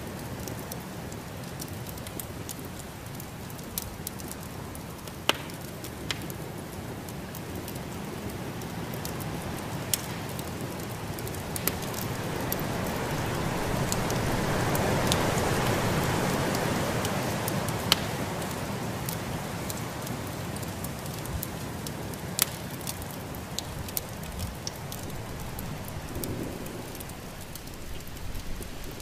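Wood fire crackling in a fireplace: sharp pops every few seconds over a steady hiss. A swell of snowstorm wind rises and falls midway.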